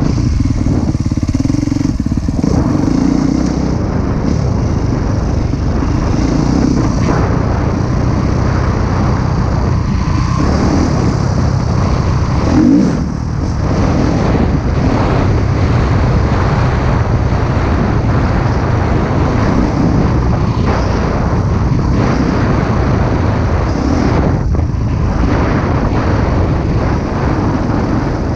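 Husqvarna TC 250 motocross bike's engine running under throttle while riding, loud throughout, with the revs briefly dropping off a few times, around ten, thirteen and twenty-four seconds in.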